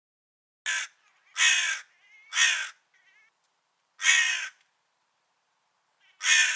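Crow cawing: five harsh caws spaced irregularly over about six seconds, the first one short, with a few fainter, quavering calls between the second and third.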